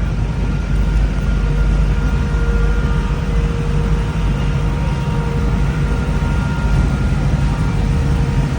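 A car driving at a steady pace: a constant low engine and road rumble with a faint, steady whine above it.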